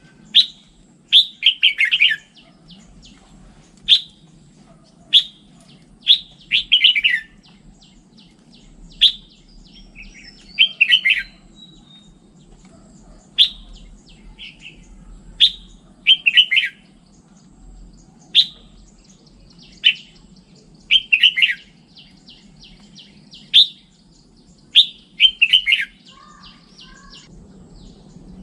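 Red-whiskered bulbul singing: short, loud whistled phrases repeated about every two seconds, many of them a sharp single note followed by a fuller warbled burst.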